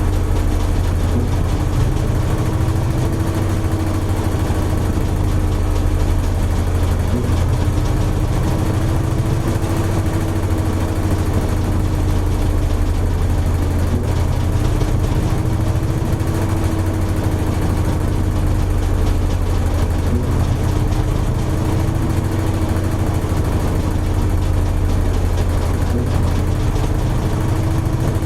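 Toshiba AW-42SEE4 fully automatic washing machine running steadily: a low motor hum with a tone that slowly wavers up and down above it.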